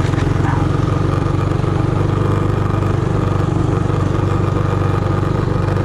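Minibike's small single-cylinder four-stroke engine running steadily at an even pitch.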